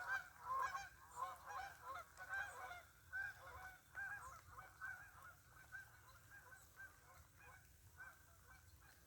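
A flock of geese honking faintly from across a field, many short overlapping honks, busy at first and thinning out over the last few seconds.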